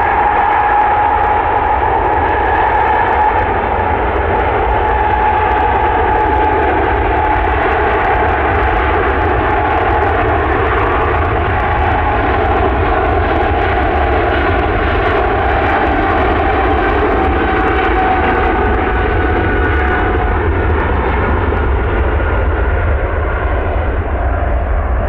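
A jet airliner's engines running loud and steady, with a whine that sinks slowly in pitch.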